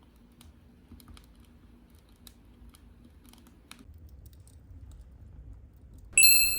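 Firewood crackling in a wood fire: scattered sharp little pops and snaps, thinning out after about four seconds. Near the end a sudden bright ringing chime cuts in, much louder than the fire.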